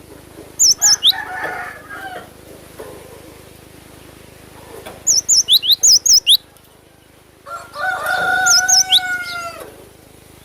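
Cinereous tit (gelatik batu) singing sharp, high whistled notes: a short phrase about half a second in, then a rapid run of about seven notes around the middle. A rooster crows once near the end, one long call that overlaps a few more tit notes.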